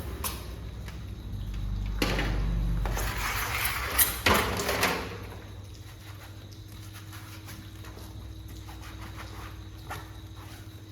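A steady low machine hum with a few sharp knocks and clatters, and a rush of hiss between about two and five seconds in.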